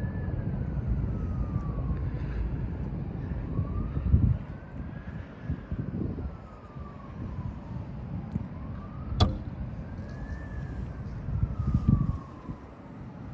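Siren wailing slowly, its pitch rising and falling about every five seconds, heard over a loud low rumble that swells twice. There is one sharp click about nine seconds in.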